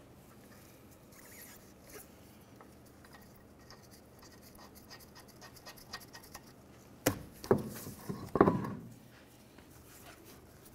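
A car's wheel and tire being hung on the hub studs: faint scraping and light clicks, then three or four sharp knocks close together about seven seconds in, the last the loudest.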